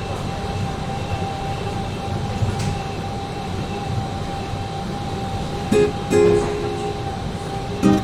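Train running with a steady low rumble and a steady whine. About six seconds in, a few plucked ukulele-like notes of music come in over it.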